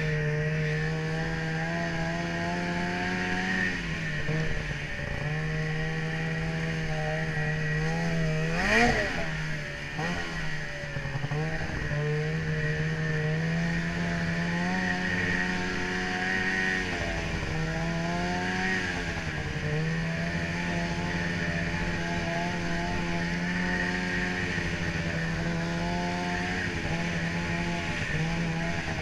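Ski-Doo snowmobile engine running steadily along a trail, its pitch wavering slightly with the throttle. About nine seconds in there is a brief louder surge that rises and falls in pitch.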